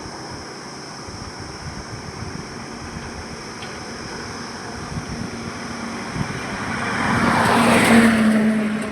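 Steady highway traffic noise. One vehicle approaches and passes close by, its engine hum and tyre noise building to a peak about eight seconds in, then falling away.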